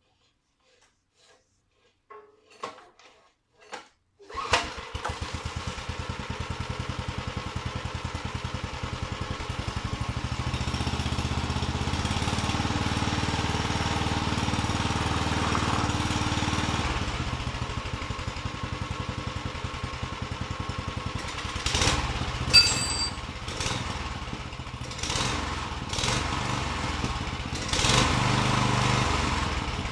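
A small water pump engine, long out of use, starts about four seconds in after a few faint clicks and then runs steadily with an even pulse. Its note gets louder and fuller for several seconds in the middle. Several sharp knocks or clatters sound over the running engine near the end.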